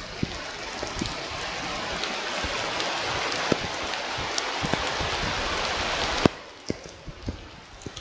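Rain: a steady hiss with scattered drops tapping close to the microphone. The hiss grows louder, then cuts off suddenly with a sharp click about six seconds in, leaving only occasional taps.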